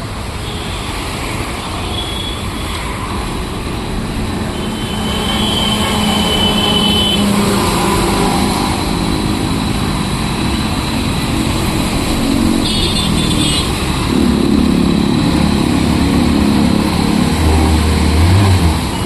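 Motorcycle engine running under varying throttle over a steady rushing noise. It grows louder about five seconds in.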